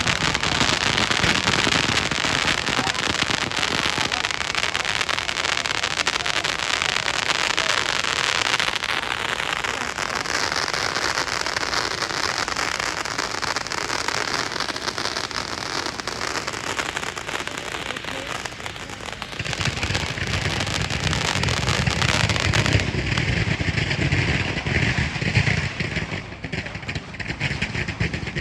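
Fireworks going off in a dense, continuous crackle of rapid small cracks. A low rumble joins about two-thirds of the way through.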